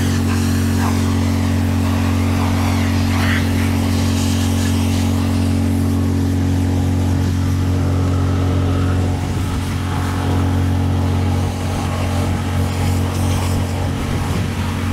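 Pressure washer running: a steady engine drone with a hiss of water spray over it.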